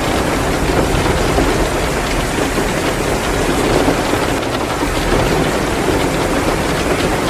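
Heavy rain pouring steadily, mixed with the crackle of a wood fire burning in a fireplace.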